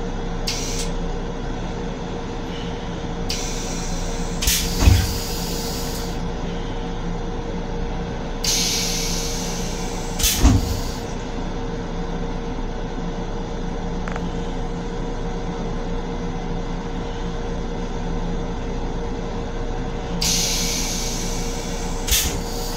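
Steady drone with a held hum from an M7 railcar, heard from inside its restroom, broken by several bursts of hiss lasting a second or two and by two sharp thumps, about five and ten seconds in.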